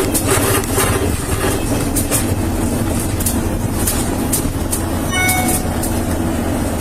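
Steady road rumble and rattling inside a moving vehicle, with a short electronic beep about five seconds in.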